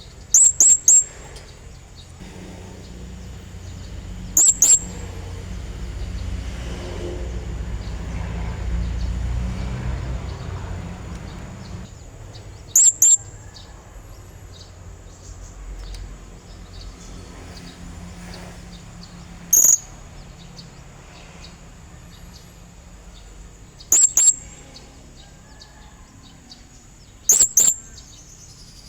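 Blue-crowned hanging parrot (serindit) giving short, shrill, very high calls in quick doubles or triples, six times a few seconds apart: calls of the kind used to lure a rival male. A low rumble runs underneath, louder in the first half.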